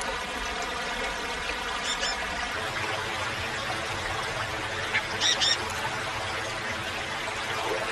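Two short, high-pitched chirps from a small animal, a faint one about two seconds in and a louder double chirp about five seconds in, over a steady background of held tones.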